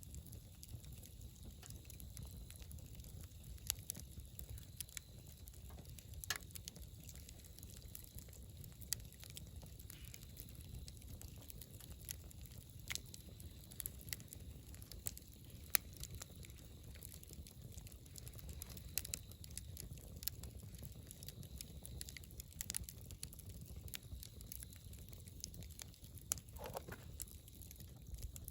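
Wood fire burning: scattered sharp crackles and pops over a low steady rumble of the flames, with a brief falling whistle near the end.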